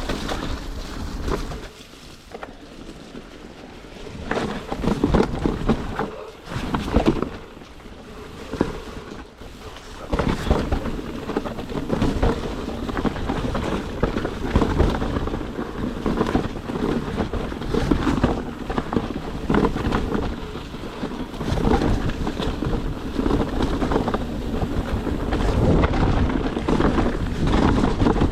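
Downhill mountain bike ridden fast over a wet, rough trail: wind buffeting the microphone, with the bike rattling and knocking over roots and bumps. Quieter spells at about 2 and 8 seconds in.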